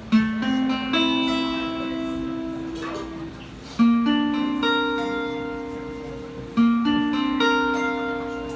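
Guitar picking a slow instrumental intro: a short phrase of plucked notes that ring and die away, played three times, each starting about every three seconds.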